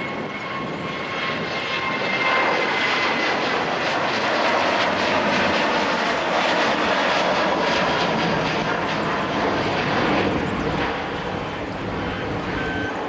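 Boeing 737-800 jet engines (CFM56-7B turbofans) running loud, a dense rushing noise with a faint high fan whine early on, growing louder about two seconds in and easing slightly near the end.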